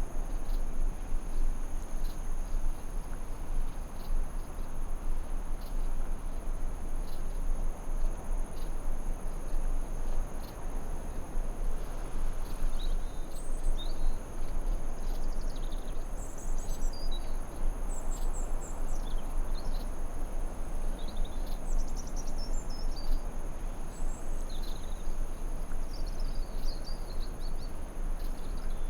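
Forest ambience: a steady low rushing noise under a constant high insect drone, with small birds chirping in short calls through the second half.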